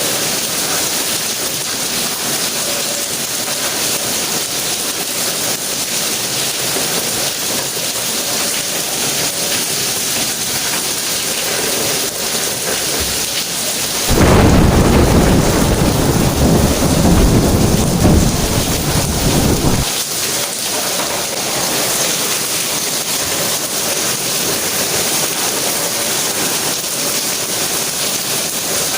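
Steady rain falling, with a deep thunder rumble that comes in about halfway through, lasts about six seconds and cuts off suddenly.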